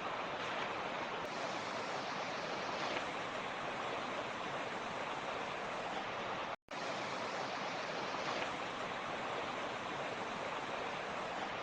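Creek water rushing steadily over rocks, an even hiss-like rush. The sound cuts out completely for a split second a little past halfway, then resumes unchanged.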